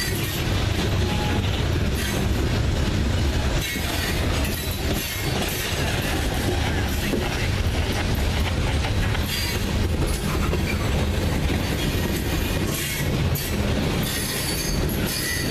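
Loaded coal cars of a freight train rolling past: a steady heavy rumble of steel wheels on rail with clicking over the rail joints and some wheel squeal on the curve.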